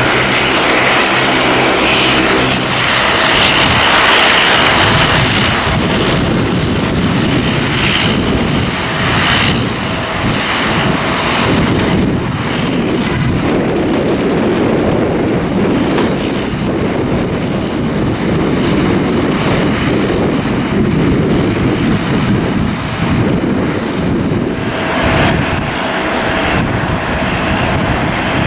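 Jet engines of a Southwest Boeing 737-700 (CFM56 turbofans) running loud and steady as the airliner passes, with gusts of wind buffeting the microphone.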